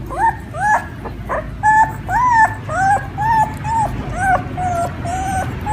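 A dog whining in a quick run of short, high-pitched whimpering yelps, about two or three a second, a few held a little longer.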